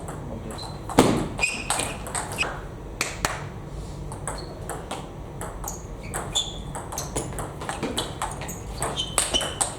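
Table tennis ball being played: quick, irregular clicks of the ball off paddles and bouncing on the table, several a second, with a loud knock about a second in.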